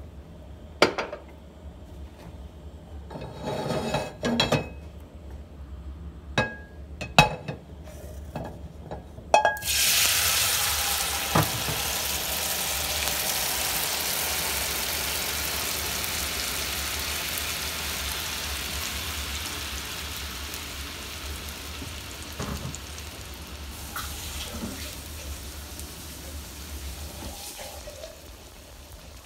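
A few clinks and knocks, then blended tomatillo salsa hitting hot oil in a nonstick frying pan: a loud sizzle starts suddenly about ten seconds in and slowly dies down as the salsa fries.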